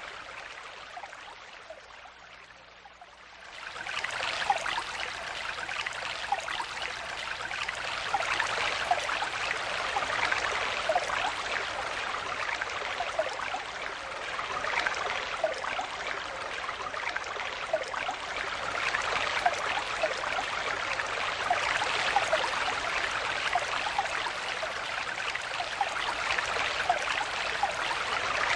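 Shallow forest stream flowing, a steady rush of water with many small splashes and gurgles. It briefly drops and thins out in the first few seconds, then comes back full at about four seconds in and runs on evenly.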